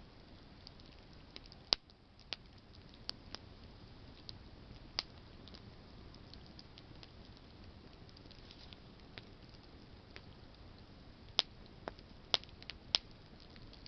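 Wood campfire burning with a soft steady hiss and sparse sharp crackles and pops from burning branches, a few louder pops together near the end.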